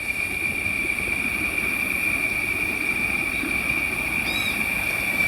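Outdoor ambience: a steady high-pitched whine over a low, uneven rustling noise, with a short chirp about four seconds in.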